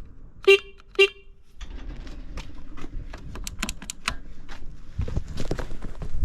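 Motorcycle horn tooted twice in short blasts about half a second apart, as in a horn check on the Suzuki RGV Gamma 250. Scattered clicks and handling noise follow.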